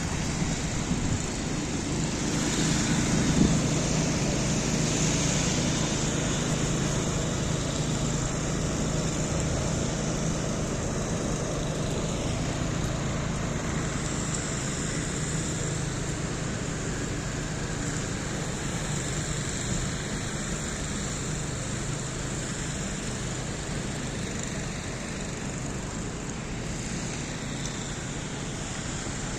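City street traffic noise: a steady rush of passing vehicles, with a low engine hum that is strongest in the first half and fades slightly later.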